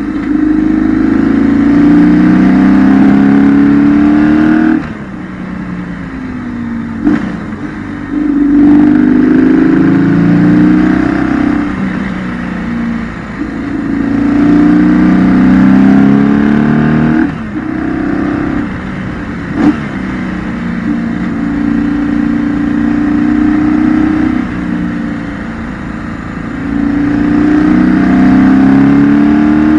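2008 BMW R1200GS boxer twin engine, heard onboard, accelerating hard out of bends several times with its pitch climbing through each gear. Between pulls it drops to a quieter off-throttle run for the corners, with a couple of sharp clicks.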